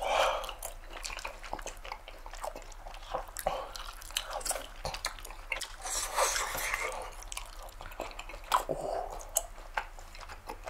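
Mouths chewing soft rice cakes filled with brown-sugar hotteok syrup and peanuts, making many small, irregular clicks and smacks.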